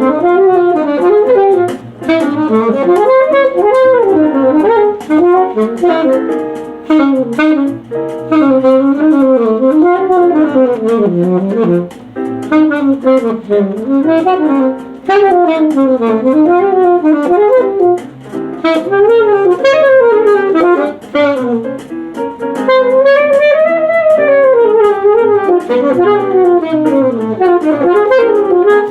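Alto saxophone playing a fast bebop melody: quick runs of notes rising and falling, broken by short breaths.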